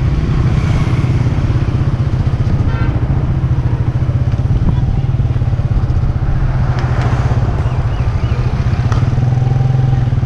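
Motorcycle engine running steadily as a loud, pulsing low drone. A brief higher tone cuts in about three seconds in.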